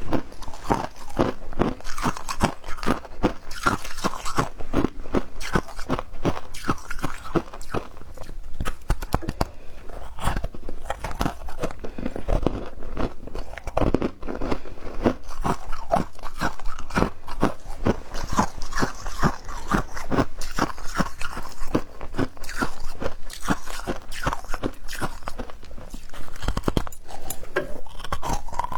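Humidifier ice being bitten and chewed in big bites, a steady run of loud, squeaky crunches with no pause.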